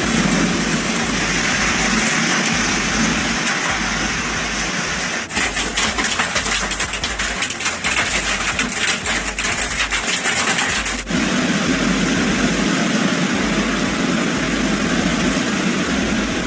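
Hailstorm: a loud, dense roar of rain and hail. In the middle stretch the roar turns into many sharp hailstone strikes, which stop abruptly about eleven seconds in.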